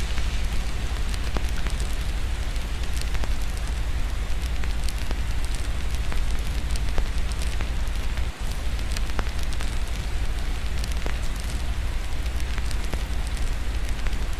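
Wood fire crackling, with irregular small pops, over a steady hiss of rain and a deep, constant low rumble.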